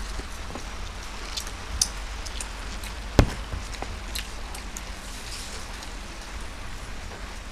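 People eating Maggi rolls: scattered small clicks and crackles of chewing and handling the food, with one sharp knock about three seconds in, over a steady low hum.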